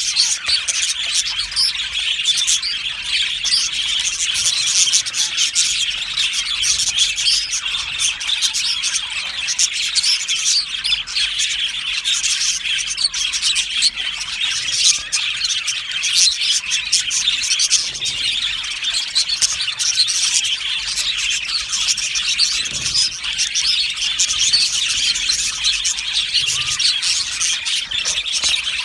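A colony of budgerigars chirping and chattering all at once, a dense, continuous mass of overlapping calls with no let-up.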